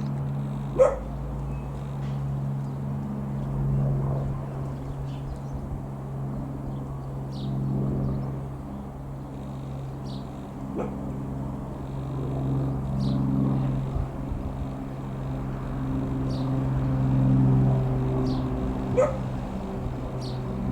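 Single-engine piston propeller aircraft droning overhead, a steady low hum that swells and fades slowly. A dog barks sharply about a second in and again near the end.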